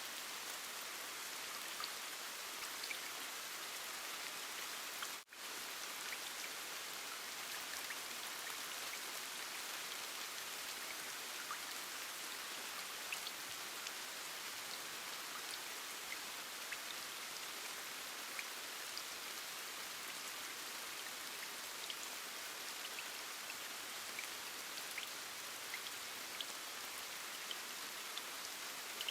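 Steady rain, an even hiss with scattered small drop ticks. It drops out for an instant about five seconds in.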